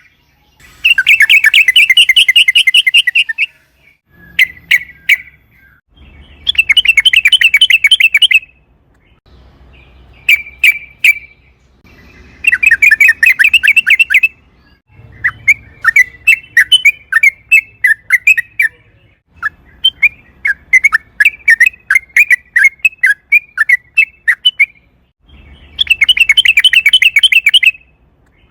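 Yellow-vented bulbul (trucukan) singing: repeated phrases of rapid, bubbling chattering notes, each about two to three seconds long, with short pauses between them. A looser, longer run of notes comes in the middle.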